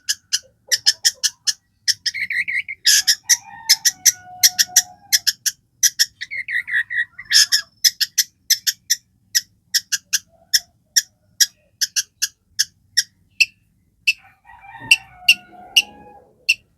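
Long-tailed shrike (cendet) in full, vigorous song: a fast run of sharp, high chattering notes at about three to four a second. Harsher, denser phrases come in twice early on, and lower whistled notes come around four seconds in and again near the end.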